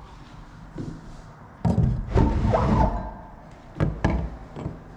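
Pry bar levering a wooden window stop outward along a sash window frame: a creaking, scraping stretch of wood about a second and a half in, then two sharp knocks.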